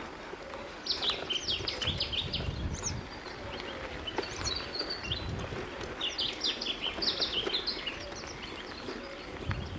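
Small songbird singing outdoors: two phrases of quick, high chirping notes, each about two seconds long, with a pause between them.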